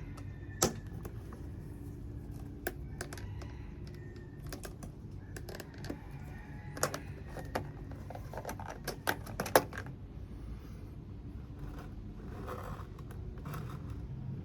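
Irregular sharp clicks and taps, thickest around the middle and stopping about ten seconds in, over a low steady hum.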